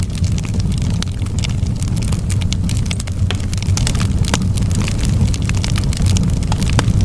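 Wood fire burning: a steady low rumble of flames under many irregular sharp crackles and pops of burning wood.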